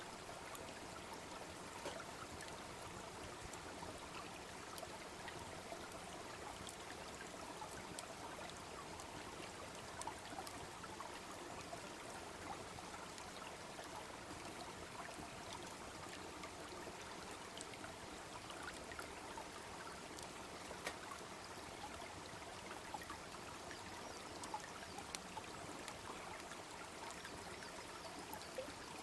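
Babbling brook running steadily, with the small sharp crackles and pops of a wood bonfire scattered through it.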